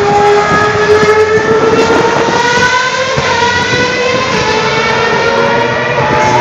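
A vintage Formula One car's engine running at high revs, its pitch climbing slowly and steadily as the car accelerates along the circuit.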